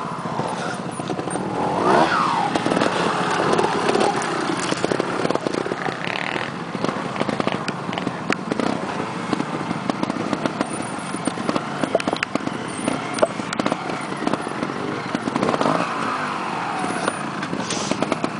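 Trials motorcycle engine running at a low idle and blipped in short bursts of revs, the pitch rising and falling as the rider works the bike over rocks. The clearest rev swells come about two seconds in and again near the end.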